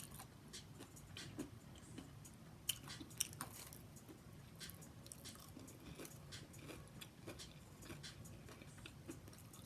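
A person chewing breaded, fried mushrooms close to the microphone: faint wet mouth clicks and soft crunches, with two louder crunches about three seconds in.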